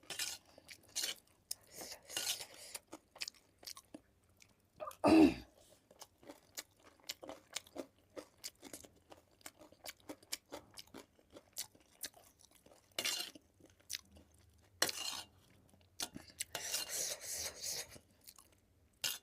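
Close-miked chewing: a person eating crunchy, saucy food, with irregular crunches and wet mouth clicks. There is one louder burst about five seconds in.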